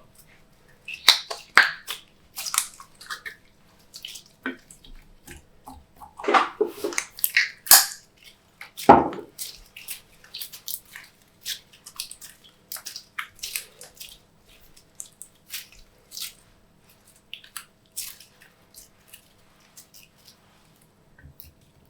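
Glossy slime being squished and mixed, giving off irregular sticky wet clicks and pops. The pops are loudest in the first half.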